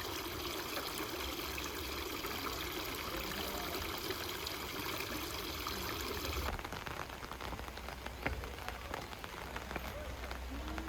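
Steady hiss of falling or running water. About six and a half seconds in it changes abruptly to a thinner patter with scattered drip-like ticks.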